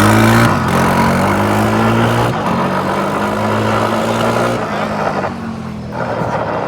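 Car engine revving hard and held at high revs, easing off about five seconds in.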